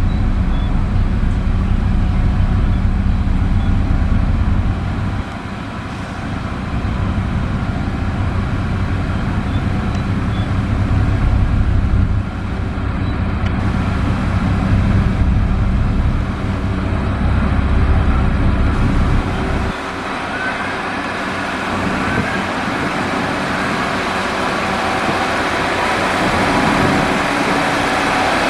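Heavy diesel construction machinery running steadily at a road-building site, as when a motor grader spreads gravel. The engine sound changes abruptly a few times.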